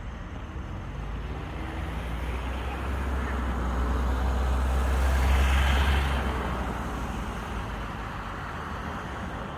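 A road vehicle passing by: a low rumble and tyre hiss that build up, peak about halfway through, then fade away.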